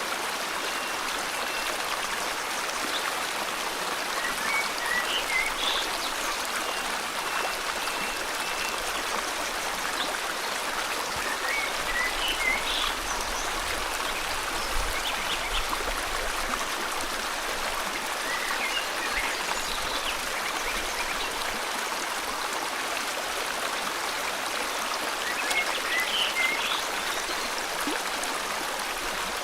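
Steady rush of a flowing river, with a bird's short chirping phrase repeated about every seven seconds over it.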